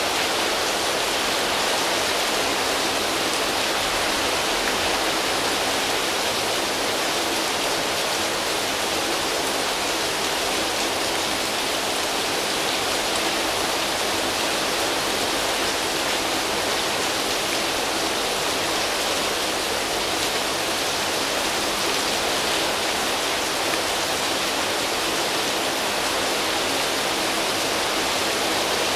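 Steady heavy rain falling on leaves and foliage, a constant even hiss without distinct drops or thunder.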